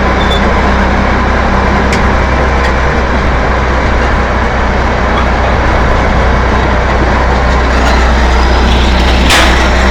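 Diesel engine of a freshly overhauled T-11.01 crawler bulldozer running steadily at a constant speed. A short sharp click-like noise comes near the end.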